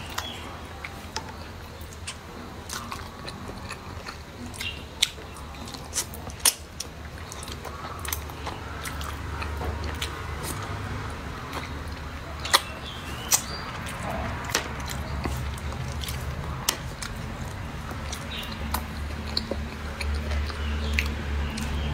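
Close-up eating sounds: a person biting and chewing pieces of braised chicken, with many sharp clicks and crackles scattered throughout. A steady low hum sits underneath and grows louder in the second half.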